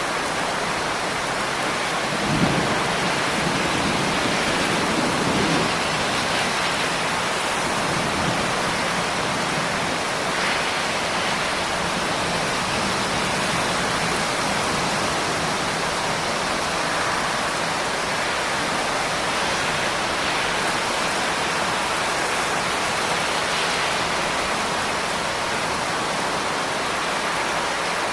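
Steady, heavy rain falling as a dense, even hiss. About two and a half seconds in, a low rumble of thunder swells suddenly and rolls on for several seconds before fading back under the rain.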